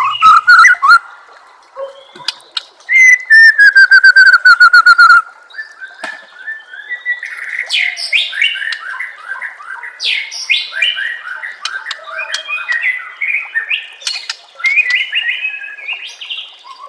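Songbird song from a masteran training recording: a loud, falling whistle with a fast buzzy trill about three seconds in, followed by a rapid, varied run of short chirps and notes.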